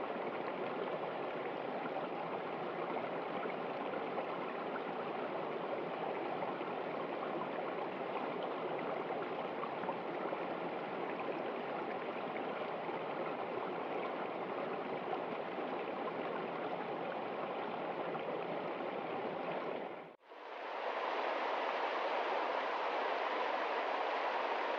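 Steady rush of flowing stream water. About 20 seconds in it fades out to a moment of silence, and a new steady rushing water sound fades in with less depth.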